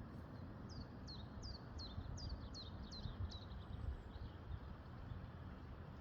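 A bird singing a run of about eight quick, downward-sliding chirps, evenly spaced at roughly three a second, over a steady low rumble of background noise.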